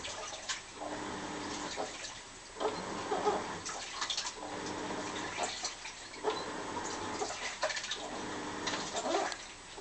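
Washing machine agitating a wash load, the drum turning in strokes about every two seconds: each stroke brings a motor hum over sloshing water and a wavering squeak that sounds like a moan.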